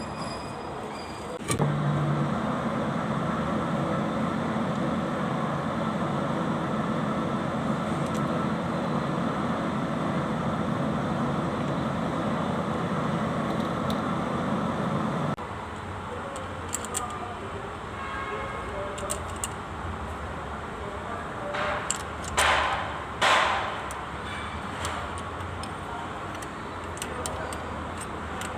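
Mitsubishi K3E three-cylinder diesel tractor engine running steadily after starting. It cuts off abruptly about halfway through, leaving a lower background with a couple of short clatters.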